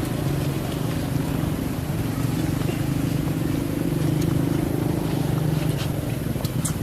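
Steady low motor hum whose pitch wavers slightly, with a few faint ticks.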